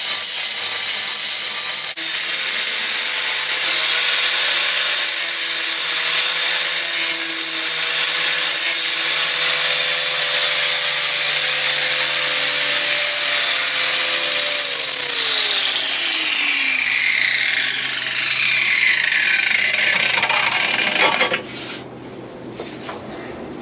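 Angle grinder running steadily against steel with a high whine. About fifteen seconds in it is switched off and winds down, its pitch falling over several seconds until it stops.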